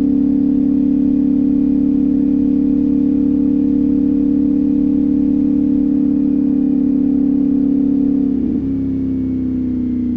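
CFMOTO 450SS's parallel-twin engine running at steady revs while cruising. Near the end the pitch wavers and settles a little lower as the revs drop.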